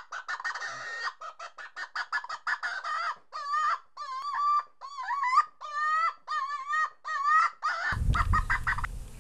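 A bird calling over and over: quick short notes for about three seconds, then a run of longer wavering calls of about half a second each. A low steady rumble comes in near the end.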